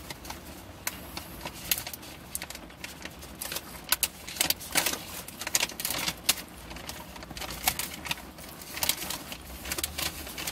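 Close-up eating sounds: chewing and lip smacking on chicken and lettuce, heard as irregular runs of sharp wet clicks and crunches.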